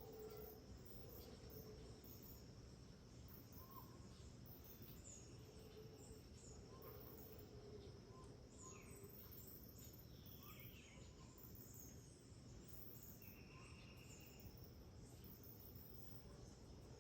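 Faint tropical rainforest ambience: insects keep up a steady high-pitched drone with faster pulsed chirping above it, and scattered short bird calls come through it.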